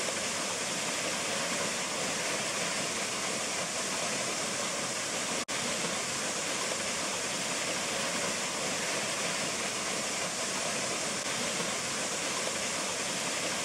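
Steady rush of Hunua Falls, a 30-metre waterfall, with the sound cutting out for an instant about halfway through.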